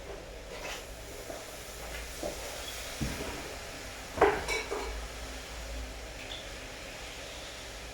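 A few light knocks and clinks, the loudest about four seconds in, over a steady low background noise.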